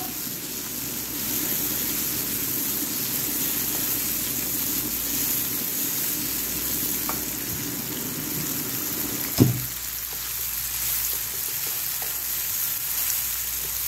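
Chopped vegetables sizzling in oil in a non-stick wok while a spatula stirs and scrapes through them. A single sharp knock sounds about two-thirds of the way through.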